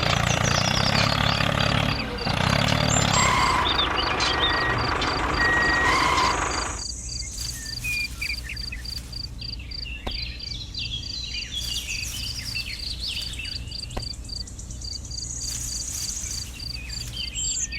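A small engine or motor running with a steady noise that cuts off sharply about seven seconds in, leaving a low hum with faint chirps.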